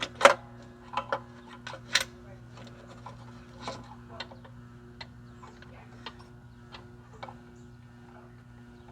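Hand tools clicking and knocking against the metal of a mower's blade tensioner as it is worked loose: scattered sharp clinks, loudest in the first couple of seconds and sparser after, over a steady low hum.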